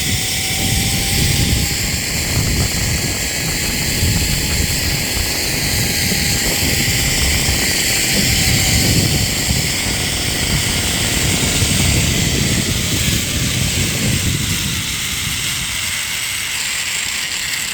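Zipline trolley running along the steel cable with a faint steady whine, over heavy wind rumble on the microphone from the rider's speed. The rumble eases off over the last few seconds.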